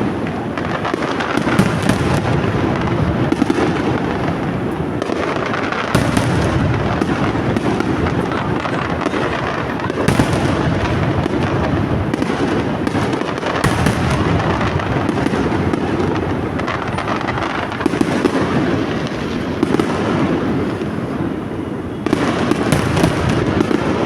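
A fireworks display going off close by: a continuous crackle and rumble of bursting shells, with sharper louder bangs about every four seconds.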